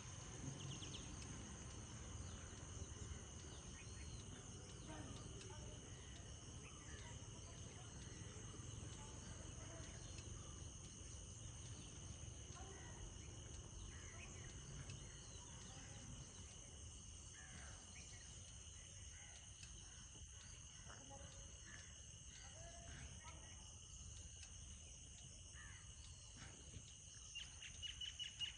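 Faint rural ambience: a steady high insect drone of crickets or cicadas, with scattered short bird chirps over a low rumble, and a brief pulsing insect trill near the end.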